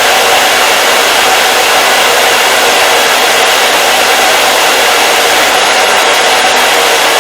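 Hair dryer running steadily: a constant, loud rush of blown air with a faint motor hum underneath, unchanging throughout.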